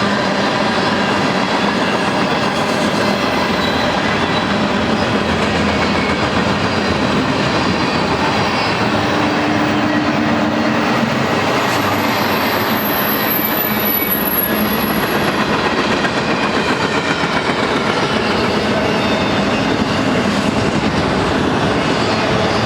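BNSF freight train cars rolling past steadily, steel wheels clattering on the rails, with a brief thin high squeal from the wheels about halfway through.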